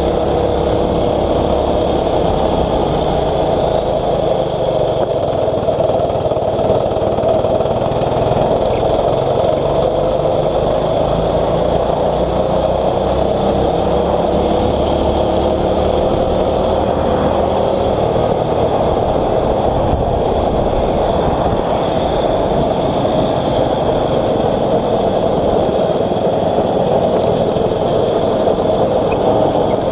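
A 6.5 HP single-cylinder four-stroke kart engine running steadily, its pitch slowly rising and falling with the throttle.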